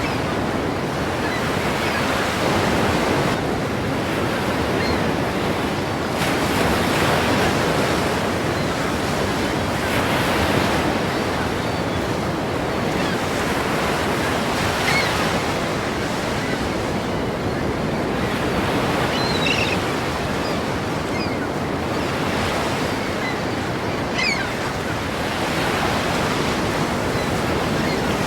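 Ocean surf breaking, a steady rushing wash that swells and eases every few seconds.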